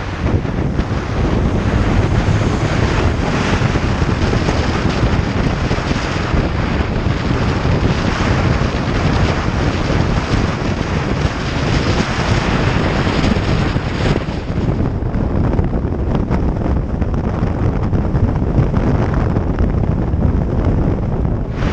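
Heavy wind noise buffeting the microphone on a moving motorcycle, with the road and engine noise of the ride blended underneath.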